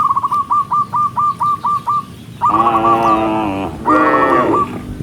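A quick run of about nine short, sharp bird notes, then two longer cattle moos, each about a second long.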